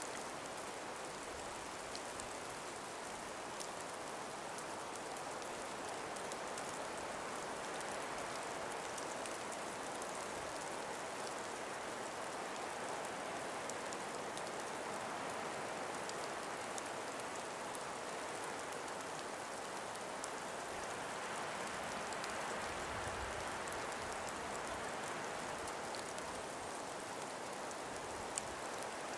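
Calm winter breeze making a steady soft hiss through an ice- and snow-laden forest, with scattered faint ticks and one sharper tick near the end.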